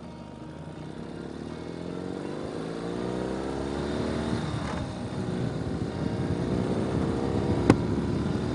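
Ural sidecar motorcycle's flat-twin engine pulling away, revs climbing, falling back about halfway through at a gear change, then climbing again. A single sharp knock near the end.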